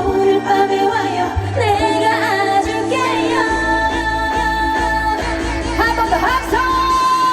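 Live trot song: a woman singing over a full accompaniment, her voice wavering with vibrato and holding one long note near the end.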